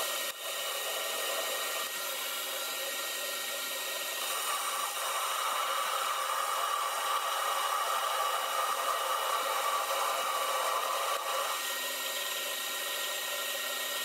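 Metal lathe running steadily. From about four seconds in until shortly before the end, a louder cutting sound rises over it as the tool takes a facing cut across the width of a bearing end cover.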